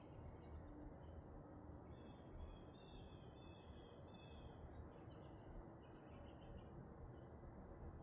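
Faint chirping of songbirds, a run of quick high notes about two seconds in and a few more around six seconds in, over a steady low background rumble.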